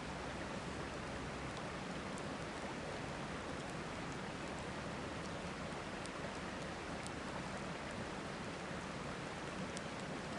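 Steady rushing of a river, with a campfire crackling over it in a few faint, sharp pops scattered through.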